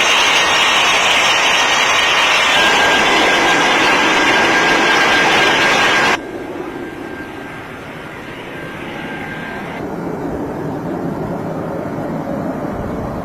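Airliner engines running loud with a steady high whine over the noise, which cuts abruptly about six seconds in to a quieter, duller engine rumble that swells a little toward the end.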